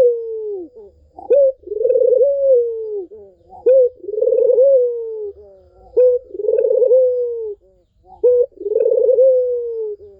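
Puter doves (domestic ringneck doves) cooing in a steady repeated pattern, about four calls. Each call is a short rising note followed by a long rolling coo that falls away.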